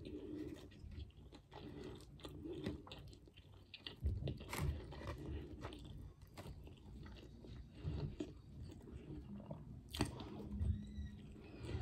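A person chewing mouthfuls of a fried Cajun flounder sandwich, with irregular soft clicks and smacks from the mouth.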